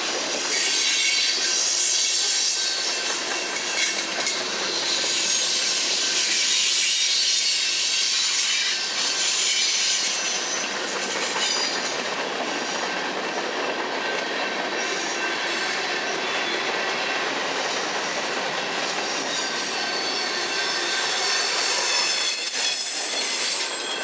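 Freight cars of a Norfolk Southern manifest train rolling past, their steel wheels squealing with a steady high-pitched ringing over the rumble of the cars. The last cars go by near the end.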